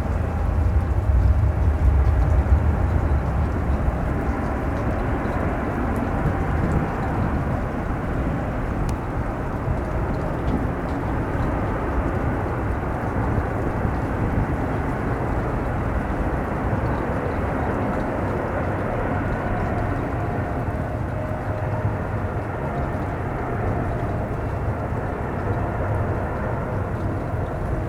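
Jet airliner engine noise: a steady rumble with wind noise, deepest and loudest in the first few seconds. A faint steady whine comes in over the second half.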